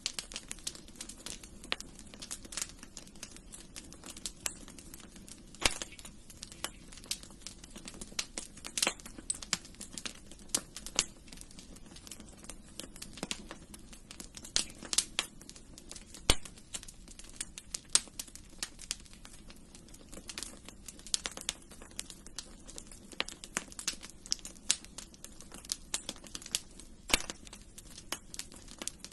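Wood fire crackling in a fireplace: irregular sharp snaps and pops over a steady low hiss of burning.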